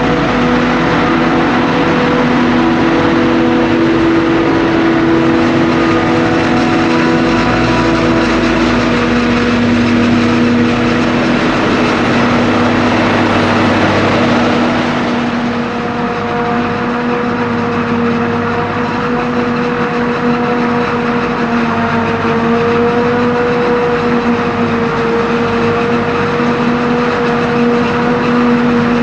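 Heavy farm machinery running steadily during maize chopping: the drone of forage harvester and tractor engines working under load. The pitch of the drone shifts about halfway through.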